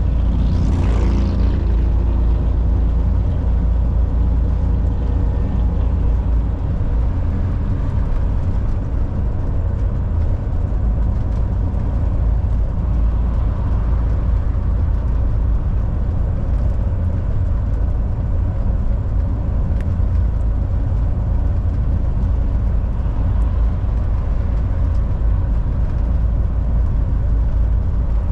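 Volvo VNL 760 semi truck driving at highway speed: a steady low engine and road rumble, with a brief hiss that rises and falls about a second in.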